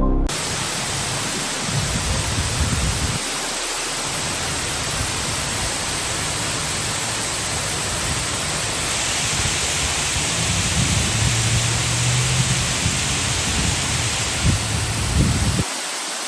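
Khor Fakkan waterfall: a steady, dense rush of falling water, with an uneven low rumble underneath.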